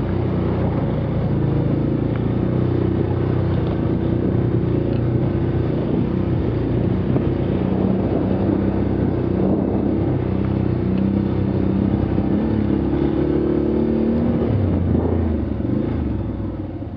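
A motor vehicle's engine running while driving, its pitch shifting up and down with the revs, easing off near the end.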